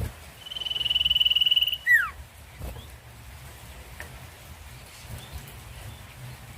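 Common iora (sirtu/cipoh) singing: one long, fast trill held at a single high pitch for over a second, ending in a quick downward-sliding whistle, over a low steady hum.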